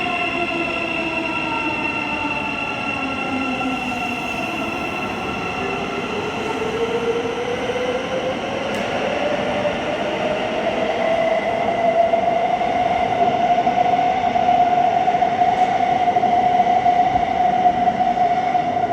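Thameslink Class 700 electric multiple unit's traction motor whine. Several tones fall in pitch over the first few seconds, then a single tone rises and holds steady as the sound grows louder in the second half.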